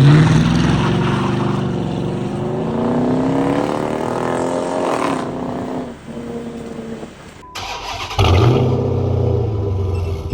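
Dodge Magnum R/T's 5.7-litre Hemi V8 through an SLP LoudMouth exhaust: it bursts in loudly, the revs climb over a few seconds, then drop away. About eight seconds in it flares up suddenly again and settles into a steady, deep idle.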